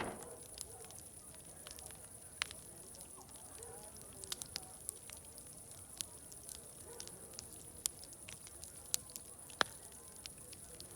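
Wood fire crackling, with irregular sharp pops, the loudest right at the start and another about nine and a half seconds in. Faint distant crowd chatter murmurs underneath.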